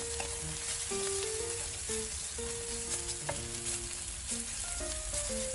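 Lion's mane and shiitake mushrooms with ginger slices sizzling gently in sesame oil in a stainless steel pan over low heat, stirred with a wooden spatula. Soft background music of slow, held notes plays under it.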